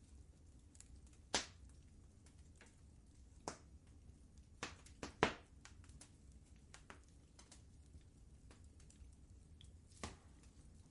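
Wood fire crackling in a fireplace: faint, irregular sharp pops and snaps over a low steady rumble, with a handful of louder pops scattered through.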